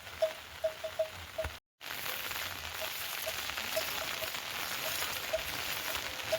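Rain falling, with water drops plinking irregularly at the same pitch onto a surface. After a brief break about one and a half seconds in, a louder, steady hiss of heavy rain follows, with occasional drips.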